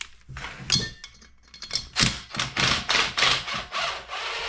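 Steel hand tools at work: a 10 mm wrench on the pair of locked nuts of a pulled engine stud, making a series of metallic clinks and knocks that come quicker and closer together from about halfway through.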